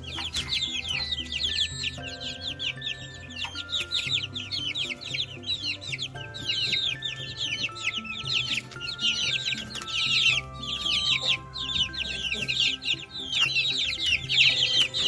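Baby chicks peeping, a dense run of short high chirps that fall in pitch, several a second, over a simple background melody.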